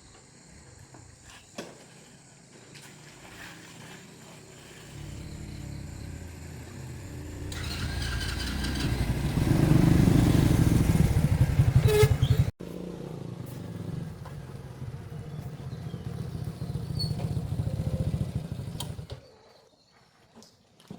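A motor vehicle engine running and growing louder, loudest about ten to twelve seconds in. After an abrupt cut it runs steadily again, then stops shortly before the end.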